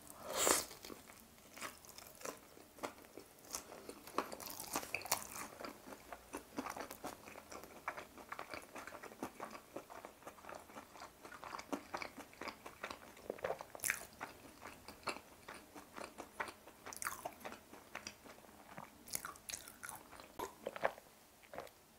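A bite into a piece of crispy breaded fried chicken cutlet with a loud crunch about half a second in, followed by close-up chewing with a steady run of small crackles from the crisp coating.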